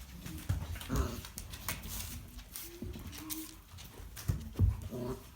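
Five-week-old English Shepherd puppies making short whimpers, with scattered thumps and scuffling, loudest about a second in and again near the end.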